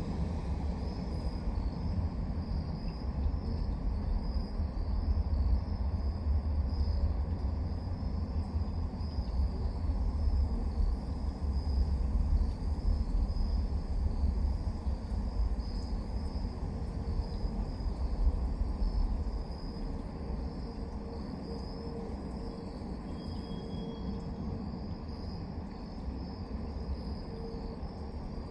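Crickets chirping steadily, with a high pulsing trill, over a deep low rumble that dies away about two-thirds of the way through.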